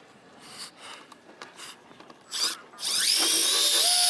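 Electric drill spinning up about three seconds in and then running steadily with a high motor whine, working into composite decking board. A brief scrape of noise comes just before it starts.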